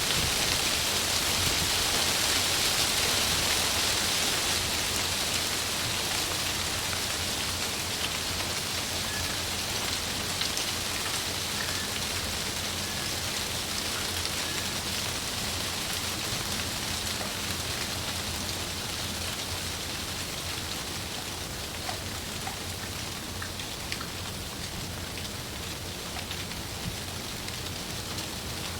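Wind rustling through tree leaves: a steady hiss of foliage with faint scattered ticks, loudest in the first few seconds and slowly easing.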